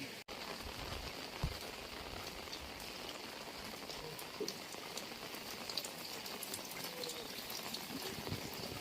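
Heavy rain falling steadily, with many individual drops ticking sharply on nearby surfaces over the hiss of the downpour. The sound cuts out for an instant just after the start.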